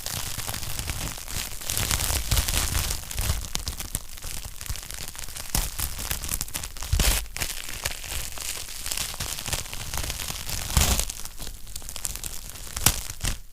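Wood fire crackling in a fireplace: a dense stream of snaps and pops from the burning logs, with a few louder cracks.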